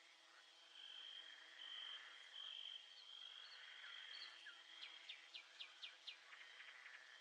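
Nature ambience, faint: a steady high-pitched insect trill, then about halfway through a bird sings a quick run of about six falling chirps, about four a second.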